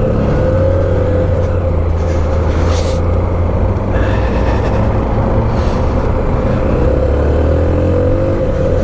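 Honda CB125F's single-cylinder engine running steadily while the motorcycle is ridden, its pitch wavering gently and dipping a little near the end.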